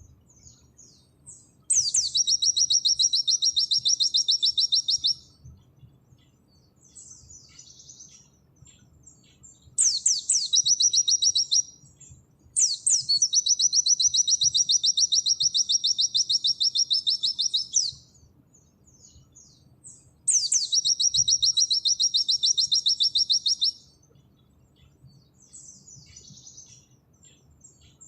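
Pleci (white-eye) singing in 'nembak' style: four long, fast trills of rapidly repeated high notes, each opening with a sharp down-slurred note, with soft twittering in the gaps.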